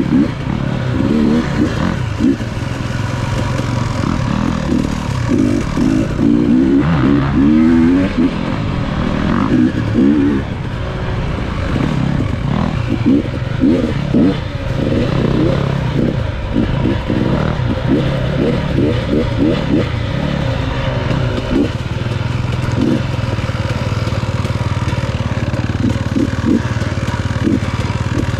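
Enduro dirt bike engine running under way, its revs rising and falling through the first ten seconds or so, then steadier, with frequent short rattles and knocks.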